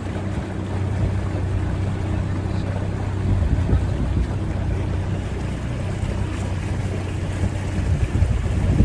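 A boat's motor running steadily with a low hum, with wind buffeting the microphone.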